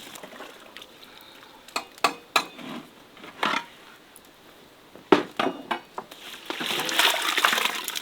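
Metal cookware and utensils clinking and knocking in a handful of separate strikes, then a steady frying sizzle building up over the last second or so.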